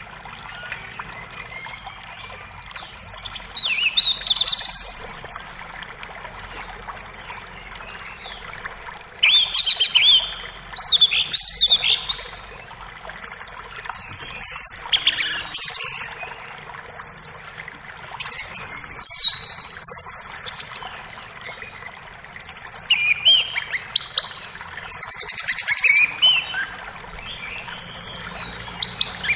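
Songbirds chirping and calling in short, high, repeated notes and quick trills throughout, over a faint steady rush of creek water.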